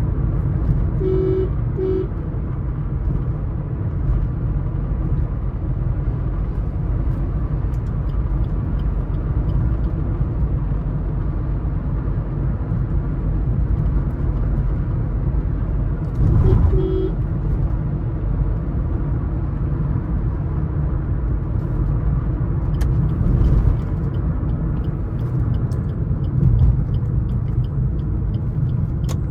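Suzuki S-Cross 1.3 DDiS diesel driving at highway speed: a steady engine and road rumble. A horn gives two short double honks, once about a second in and again about halfway through.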